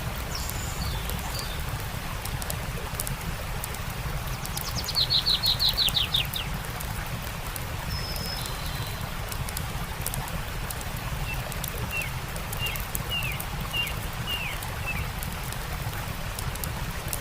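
Songbirds calling over a steady background of running water and crackling fire: a loud, rapid trill about five seconds in, a few short whistles, then a run of about six short down-slurred chirps near the end, with scattered sharp crackles throughout.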